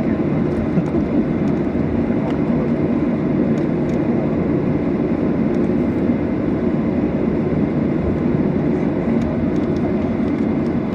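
Steady cabin noise of a Boeing 737-800 with its CFM56-7B turbofans running, heard from a passenger seat: a loud, even low rumble with a few faint light ticks.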